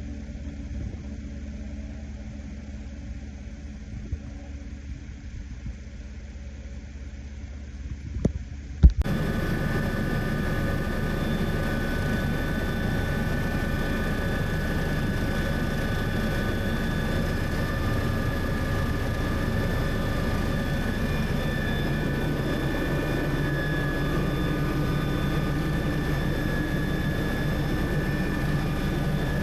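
MBB Bo 105 twin-turbine helicopter in flight, its engines and rotor running steadily with a low rumble. About nine seconds in there is a sharp click, and the sound jumps abruptly louder and fuller, with steady high turbine whine tones over the rumble.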